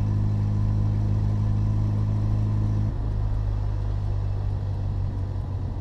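VW Gol turbo's engine and road noise heard from inside the cabin: a steady low drone that drops slightly in pitch about three seconds in.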